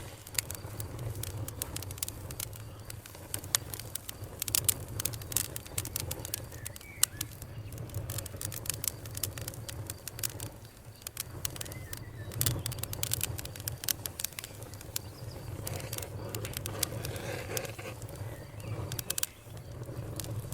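Wood fire crackling, with irregular sharp pops and snaps, a few in quick clusters, over a steady low rumble of flame.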